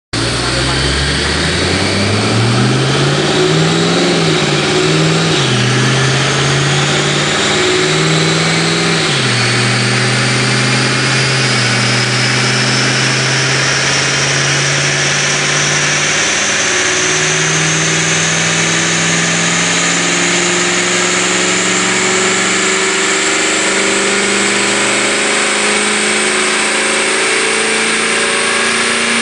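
Supercharged Ford Mustang engine run on a chassis dyno: the engine note climbs in the first couple of seconds, revs up and down briefly, then holds and steps in pitch as it goes through the gears. A high whine rises steadily and smoothly throughout as the rollers speed up.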